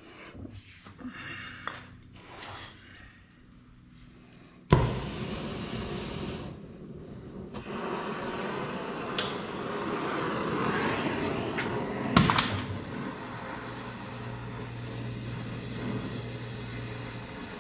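A few faint clinks of tools, then a torch lights with a sudden pop about five seconds in and hisses steadily while heating a seized exhaust stud nut, with a single sharp knock partway through.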